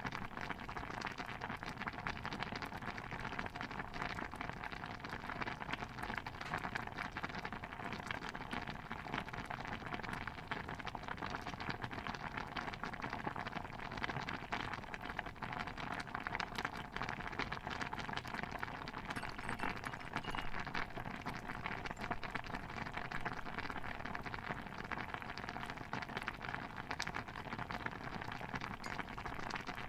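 Layered cooking-ambience soundscape: a steady, dense patter of countless small pops and crackles, with no single sound standing out.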